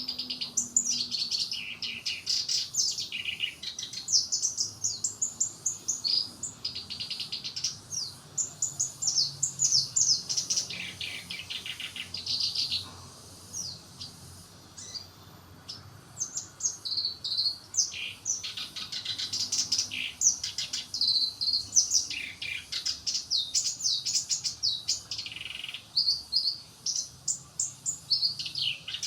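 Black-browed reed warbler singing: a long, fast run of high chirps and trills, with a pause of a few seconds about halfway through.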